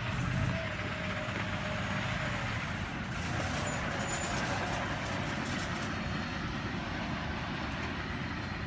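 Delivery truck's engine running steadily, with no changes in pitch.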